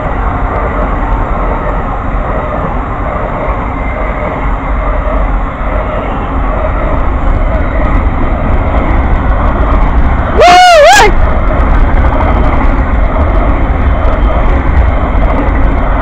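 An Amtrak passenger train running past with a steady, loud rumble of wheels on rail. About ten seconds in, a brief high pitched tone that bends up and down cuts through for under a second.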